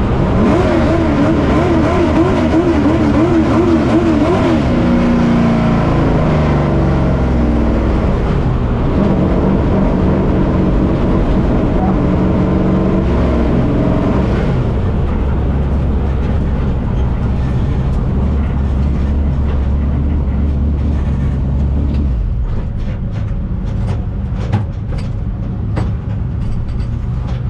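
Pro Truck race engine heard from on board, running at low revs with its pitch wobbling up and down in the first few seconds, then holding steady. About 22 seconds in, the low rumble drops away and a scatter of clicks and rattles follows.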